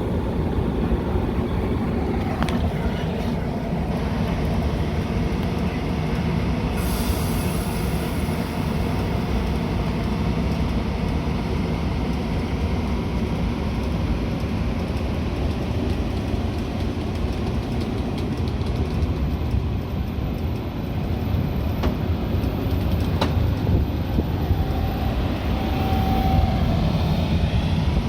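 Metra commuter train running on the rails: a steady rumble of wheels and coach, with a few short clicks.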